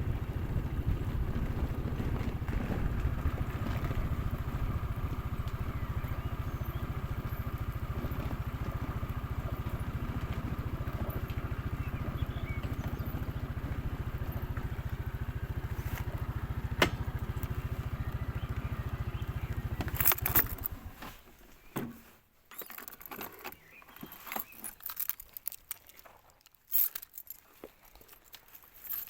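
Motorcycle running, with wind noise on the microphone. About twenty seconds in the rumble stops, leaving scattered clicks and knocks.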